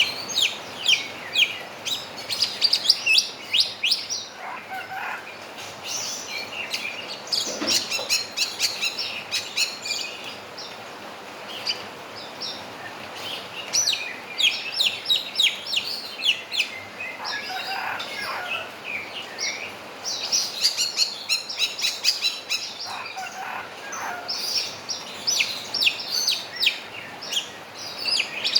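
Javan myna singing: repeated bouts of rapid, sharp chirps and whistles, broken three times by a lower, drawn-out phrase, the rooster crow the bird has learned to mimic.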